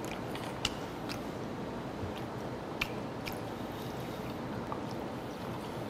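Quiet chewing of bone-in gizzard shad sashimi, with a few scattered faint clicks over steady background hiss.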